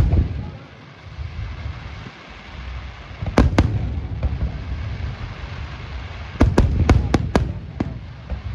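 Fireworks shells bursting in sharp reports over a steady low rumble. Two quick bangs come a third of the way in, then a fast volley of about five more a few seconds later.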